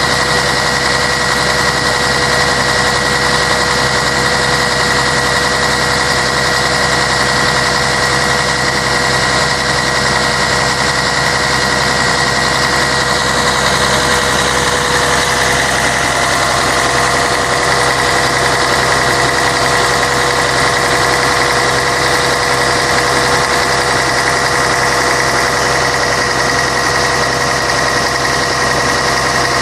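Scania K113 bus's diesel engine running steadily, a constant drone with a steady whine over it that shifts slightly in pitch about halfway through.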